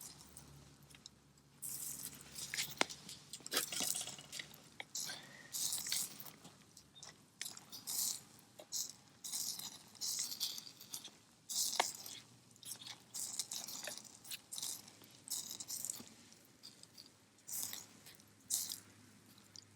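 A person chewing and crunching food, in short noisy bursts about once a second, with a few sharp clicks between them.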